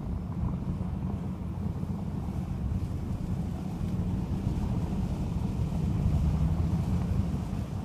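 Blizzard wind buffeting the microphone: a steady, gusting low rumble.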